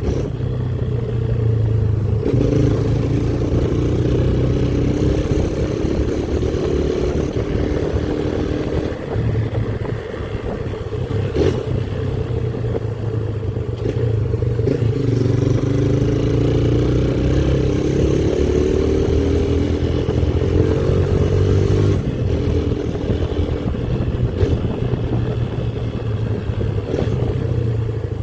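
Motorcycle engine running under way, its pitch climbing steadily as it pulls and then dropping back at gear changes several times.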